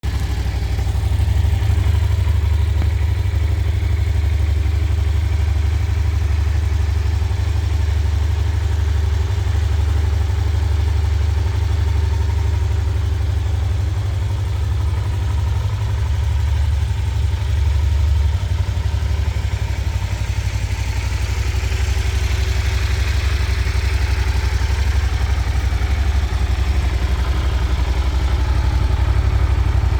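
Yamaha TDM900's parallel-twin engine idling steadily through its stock exhaust.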